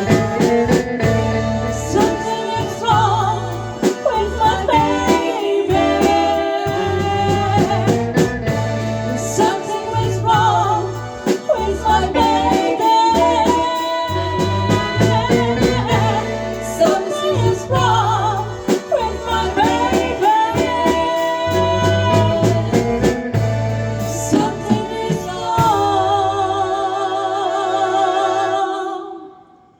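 Live band playing a soul ballad: bass and drums under a singing lead melody line, closing on a long held chord that dies away near the end.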